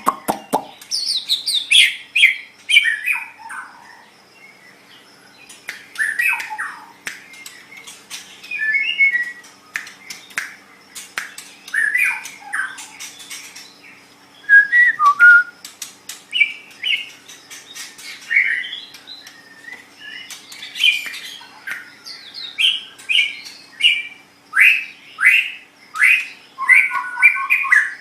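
White-rumped shama singing: a run of varied whistled phrases and harsher squawky notes in separate bursts with short pauses between, with sharp clicks among them.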